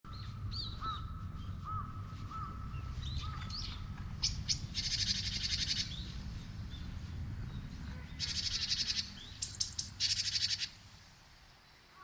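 Wild birds calling: scattered short chirps, then three bursts of rapid, rattling chatter about a second long each, over a low steady rumble. The sound drops off sharply shortly before the end.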